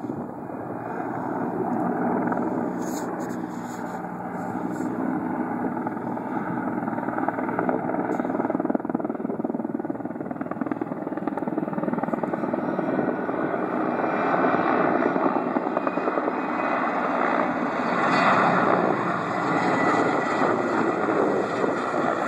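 Erickson S-64 Air Crane heavy-lift helicopter flying close overhead, its rotor and twin turbines running as one steady, dense noise that grows louder through the pass and is loudest near the end.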